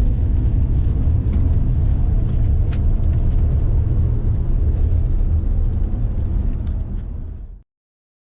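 Motorbike on the move: a loud, steady low rumble of engine and road, which fades and then cuts off abruptly near the end.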